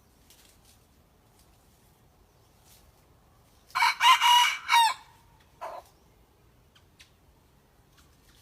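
A young decoy rooster, kept to lure red junglefowl, practising its crow: one crow of just over a second with a bending, clipped ending, followed by a short, fainter note.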